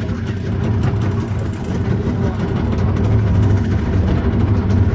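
Boat engine running steadily, a loud low hum.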